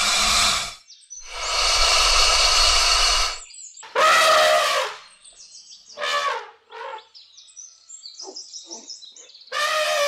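A string of separate animal calls: two rough, noisy calls, the second about two seconds long, then a pitched call about four seconds in, then shorter calls falling in pitch and a few faint chirps.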